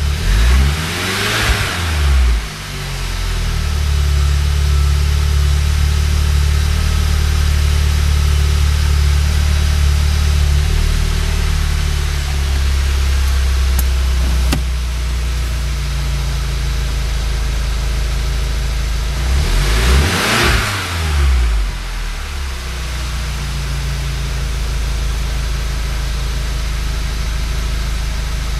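Volkswagen Mk7 GTI's turbocharged 2.0-litre four-cylinder engine idling steadily, revved up and down right at the start and blipped a few times about twenty seconds in. It is being run to test a swapped camshaft sensor and shows nothing monumental.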